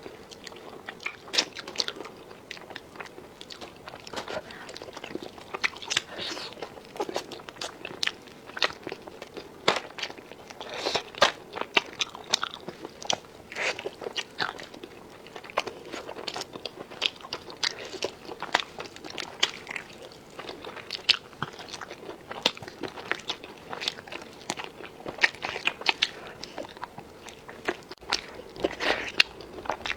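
A person chewing and biting crunchy food, with many irregular sharp crunches throughout.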